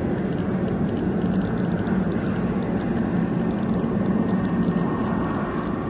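Aircraft engines running: a steady low rumble with a faint high whine above it.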